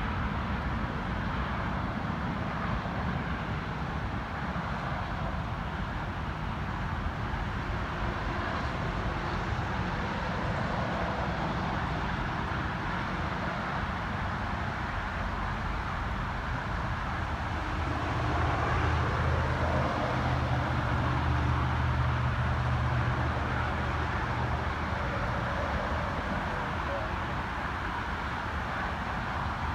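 Boeing C-17A Globemaster III's four turbofan engines heard at a distance after landing: a steady jet rush, with a louder low rumble for several seconds about two-thirds of the way through.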